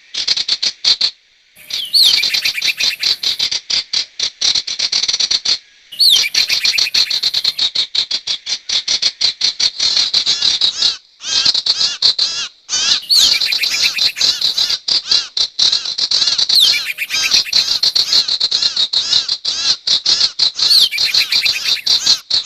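Recorded calls of the sirtu bird played as a bird lure: rapid, continuous high-pitched chattering notes, broken by a few brief pauses.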